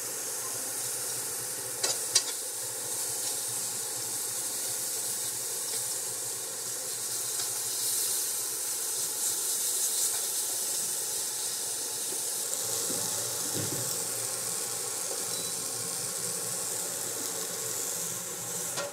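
Paneer, onion, tomato and green chilli frying in a little ghee in a Prestige Omega Deluxe granite-coated non-stick fry pan, sizzling steadily while a metal spoon stirs and scrapes through it. About two seconds in, the spoon taps sharply on the pan twice.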